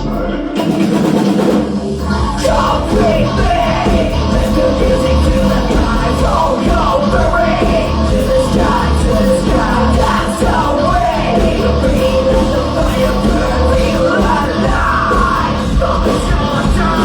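Live rock band playing a song loudly, with vocals over the instruments.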